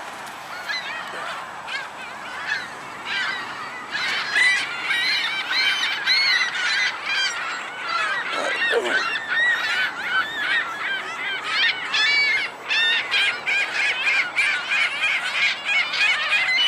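A flock of seagulls calling together: many short cries overlapping, growing louder and denser about four seconds in.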